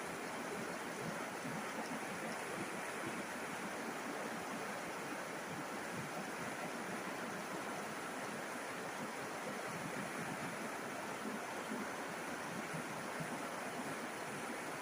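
River water rushing steadily over its bed, an even hiss that keeps the same level throughout.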